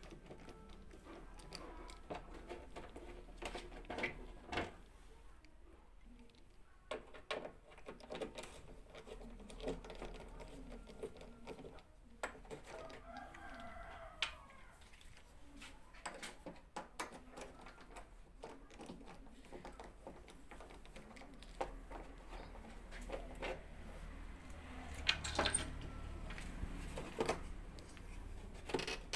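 Scattered clicks and knocks of handling, with a rooster crowing in the background about thirteen seconds in.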